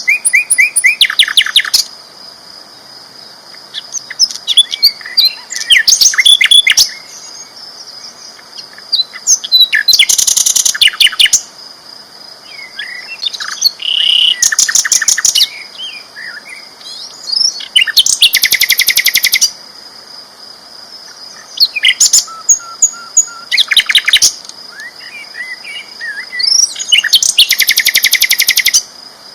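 Sikatan londo flycatcher singing loudly in short, high-pitched phrases of rapid trilled notes, each lasting a second or two and repeated about every four seconds with short pauses between. A faint steady high whine runs underneath.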